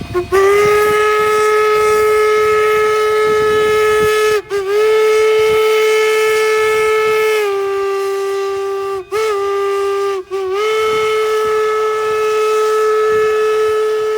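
K36 narrow-gauge steam locomotive's chime whistle sounding long, steady blasts, broken by three brief gaps, with a slight drop in pitch about halfway through.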